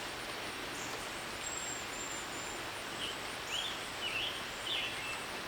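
Steady outdoor background hiss after a rainstorm, with a few short bird chirps about three to five seconds in.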